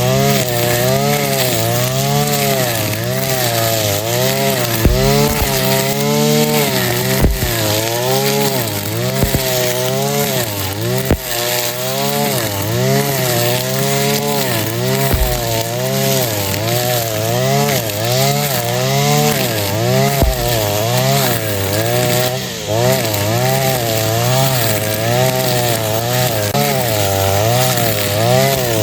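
Backpack brush cutter's 41 cc two-stroke engine running hard while cutting grass, its pitch dipping and rising about once a second as the cutting head takes load and frees up. A few short low thumps come through now and then.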